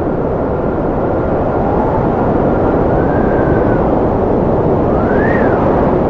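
Strong wind blowing: a steady rush with thin whistling tones that rise and fall, one whistle climbing and dropping sharply about five seconds in.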